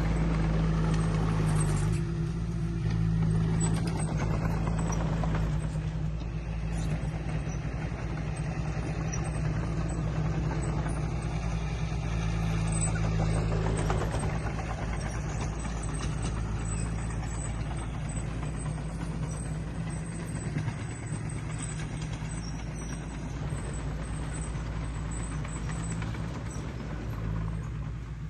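Diesel engine of heavy earthmoving machinery running steadily under work, with mechanical clatter over a low drone; it eases down a little about halfway through.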